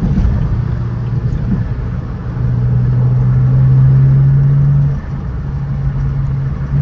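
Car engine and exhaust drone heard while driving, a steady low tone that grows louder from about two seconds in, drops suddenly about five seconds in, then builds again near the end.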